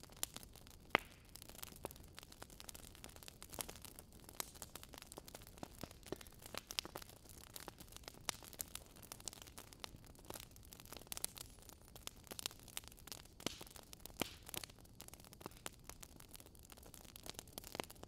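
Pencil scratching on workbook paper in short irregular strokes, with small sharp ticks as the lead taps and lifts; faint.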